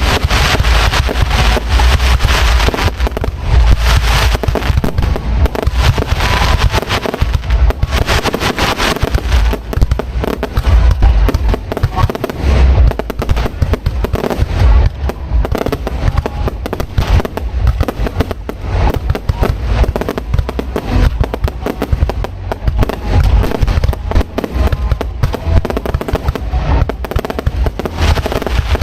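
Aerial fireworks display heard from close by: a dense, continuous barrage of booming bursts and crackling, with no let-up.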